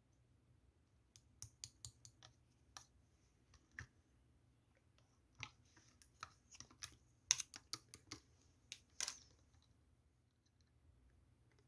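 Clear, chewy slime being worked by hand, giving off scattered small sharp clicks and pops at an irregular pace, the loudest a few seconds before the end.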